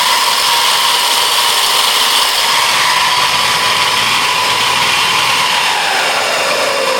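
HappyRun F18's 6000 W mid-drive electric motor revving with no rider aboard as the throttle is twisted, a steady high whine. The pitch holds level, then falls near the end as the throttle eases off.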